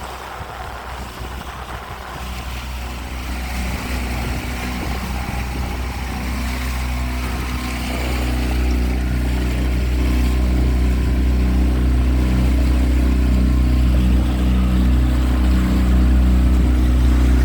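Small boat's outboard motor running with a steady low hum, growing louder through the stretch and gaining a stronger, clearer engine note about halfway through.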